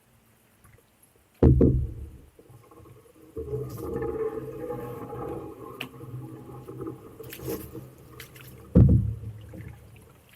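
Canoe on the water: a sudden hollow knock on the hull about a second and a half in, a longer uneven sound of the canoe and paddle working, and a second loud knock near the end.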